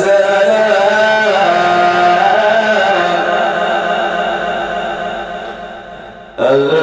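A man's voice reciting the Quran in melodic tajweed style, drawing out one long ornamented phrase that fades away about six seconds in. The next phrase starts abruptly just before the end.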